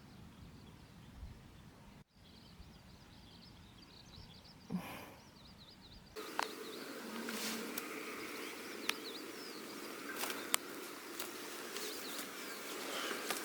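Outdoor ambience that changes abruptly twice: low rumbling noise at first, then small birds chirping over a quiet background, then from about six seconds a louder steady noisy background with scattered clicks and a few more chirps.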